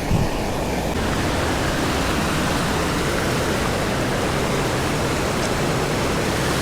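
Steady rush of a nearby waterfall. A brief low thump comes right at the start.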